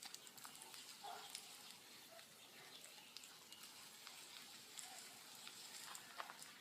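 Faint crackling of a large wood bonfire, with scattered small pops over a soft hiss.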